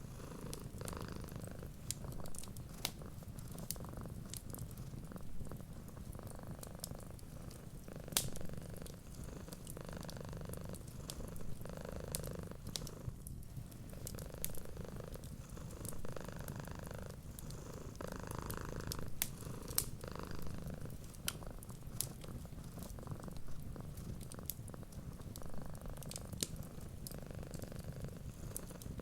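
A cat purring steadily, the purr swelling with each breath every couple of seconds, with scattered sharp pops and clicks of a wood fire crackling.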